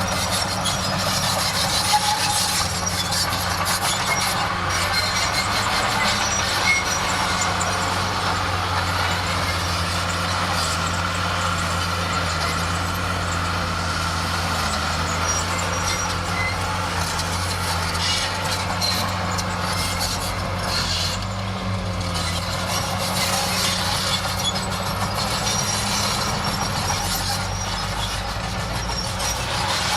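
Crawler bulldozer working: its diesel engine runs with a steady drone. Rapid metallic clanking and rattling of the steel tracks and undercarriage lies on top of it, with some squealing.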